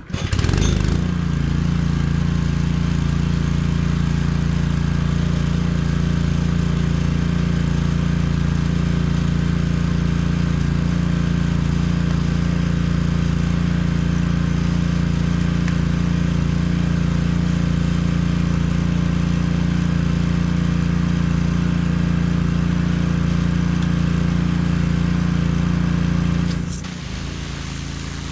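Petrol-engine pressure washer starting up and then running steadily at full speed. Near the end the engine sound drops and changes.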